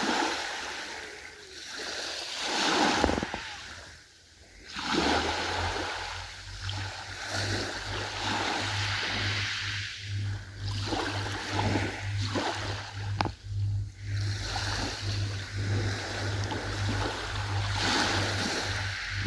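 Ocean waves washing in and out, swelling and fading every few seconds. From about five seconds in, a steady low hum runs beneath the surf.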